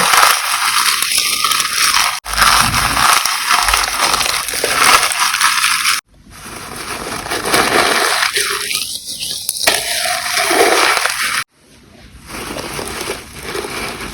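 Gym chalk reforms being crushed and crumbled, a dense crackling crunch. It comes in several short clips that cut off abruptly about two, six and eleven and a half seconds in.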